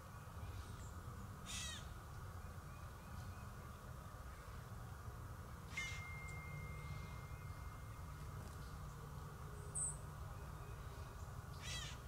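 Three brief, high bird calls, each a rapid burst, spaced about four seconds apart. A thin steady tone follows the second call for about two seconds, over a steady low rumble.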